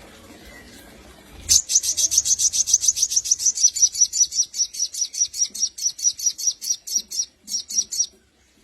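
Crimson sunbird (sogon) singing a long, rapid string of high, sharp chirps, about eight a second, starting about a second and a half in and breaking off briefly near the end.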